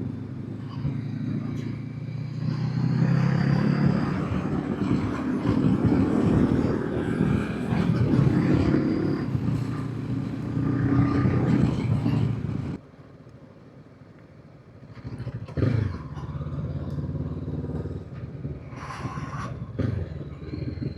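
Honda CB500X parallel-twin engine running under throttle on the move, with wind noise, pulling harder about two seconds in. About twelve seconds in the sound cuts off abruptly to a much quieter low engine rumble with a few short knocks.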